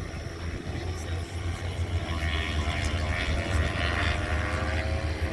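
Racing motorcycles' engines at high revs, a whine that rises slowly in pitch and grows louder from about two seconds in, over a steady low rumble.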